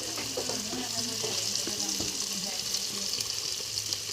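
Green peas and French beans frying in hot ghee and oil in a pressure cooker: a steady sizzle, with stirring.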